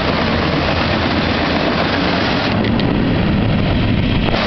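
Freight cars of a passing CSX mixed freight rolling by on the rails: steady, loud wheel-on-rail noise that briefly turns duller about two-thirds of the way through.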